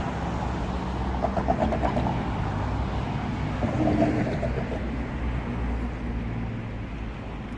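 Road traffic: motor vehicles driving past with a steady low rumble that eases off slightly toward the end.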